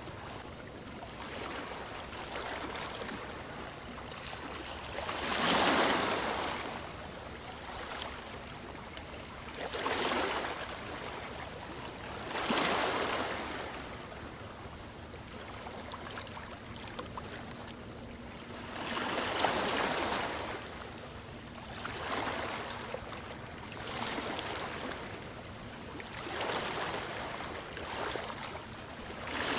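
Ocean waves washing onto a shore: a steady wash of water with a wave swelling and falling back every few seconds, the loudest about six seconds in.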